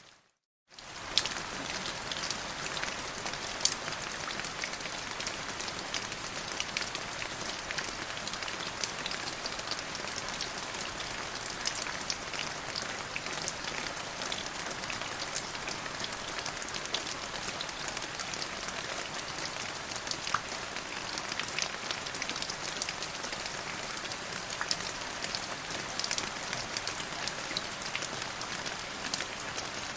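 Steady rain falling, a dense even hiss with many individual drops ticking on surfaces. The sound cuts out to silence for a split second right at the start, then resumes at the same level.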